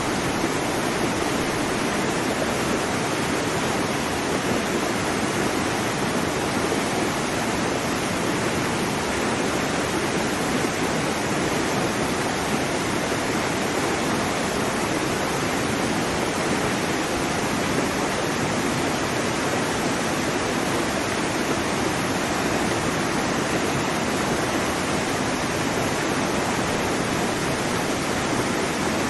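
Waterfall: a steady, unbroken rush of falling water that never changes in level.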